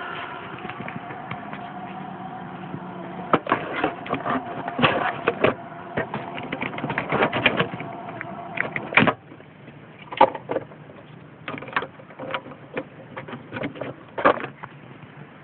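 Relay behind the fuse box of a Mercedes C-Class W202 clicking irregularly, in fast clusters and then in scattered single clicks, over a steady hum that drops away about nine seconds in. The clicking is the car's strange-noise fault, cured by replacing the hazard-warning light switch.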